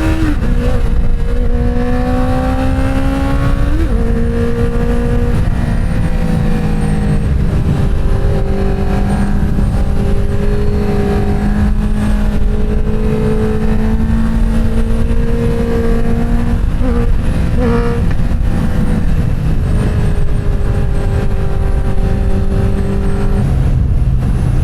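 Inline-four motorcycle engine running under way at steady speed, its note holding mostly even and stepping down in pitch a few times as the rider changes gear. Heavy wind rumble lies under the engine note.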